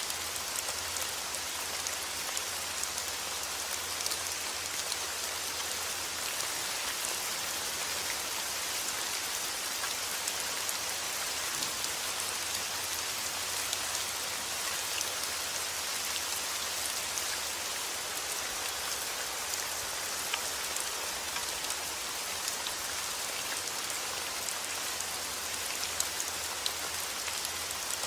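Steady heavy rain falling outdoors, a dense hiss of drops pattering on surfaces, with no thunder.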